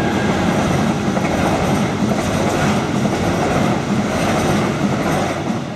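Passenger train passing, the steady running noise of its wheels on the rails, fading away near the end.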